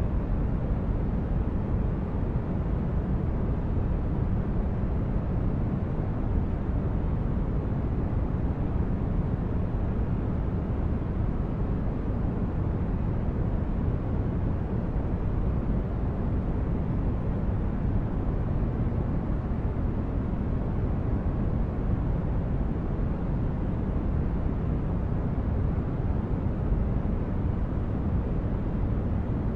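Steady, deep rumbling noise from a sleep noise track. It is heaviest in the bass, dulled in the highs, and unchanging.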